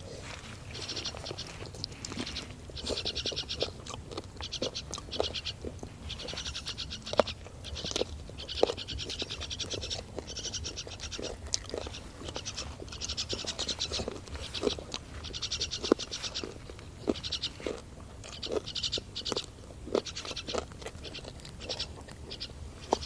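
Close-up chewing, sucking and crunching sounds of a person eating curried chicken feet by hand, as a run of short irregular clicks and smacks. A high, rapidly pulsing chirping repeats in the background every second or so.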